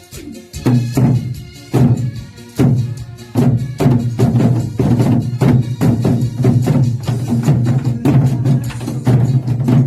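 Korean buk nanta drumming: hard drum strikes about a second apart at first, settling into a steady, faster beat about three and a half seconds in, played along with a recorded trot song.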